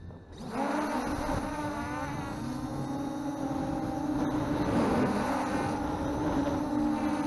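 Brushless motors and propellers of an MJX Bugs 3 quadcopter heard from its onboard camera, a steady whirring hum whose pitch wavers with the throttle. The motors spool back up from a brief drop about half a second in.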